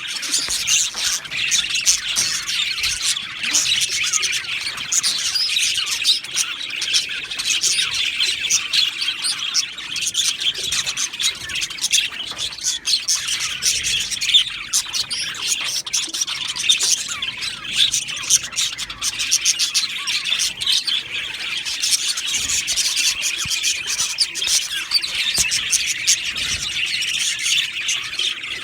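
A flock of budgerigars chattering and chirping, many birds calling over one another without a break.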